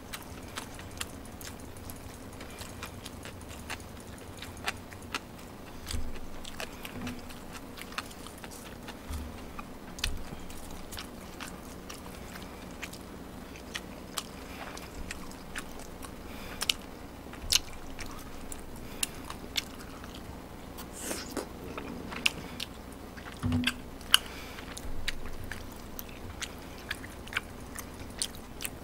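A person chewing and eating close to the microphone: irregular wet mouth clicks and smacks, with a few soft low thumps, and no talking.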